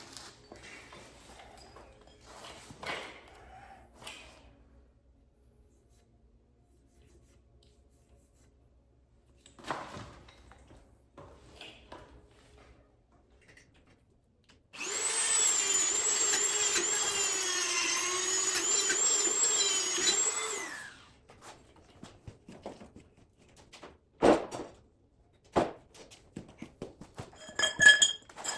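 An electric power tool's motor runs for about six seconds with a steady, slightly wavering whine, starting and stopping abruptly about halfway through. A few sharp knocks and light clatter of tools or metal parts follow near the end.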